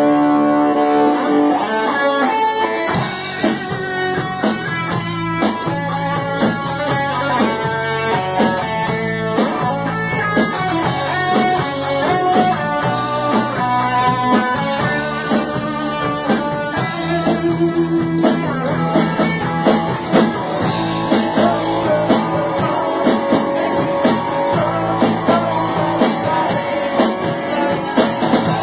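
Rock band playing an instrumental passage: guitar over bass and drums. Held guitar notes open it, and the drums come in with a steady beat about three seconds in.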